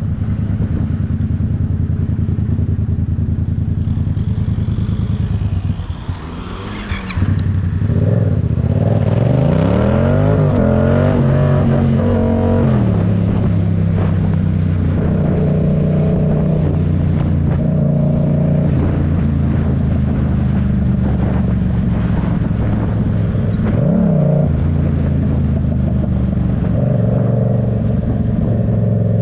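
Yamaha MT-07 parallel-twin engine running while riding. The revs rise and fall with throttle and gear changes: it eases off about six seconds in, climbs again a few seconds later, and gives a short rev blip near the end.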